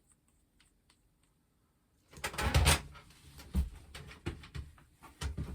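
Makeup items being handled close to the microphone: quiet for about two seconds, then a burst of rustling followed by several soft knocks and clicks.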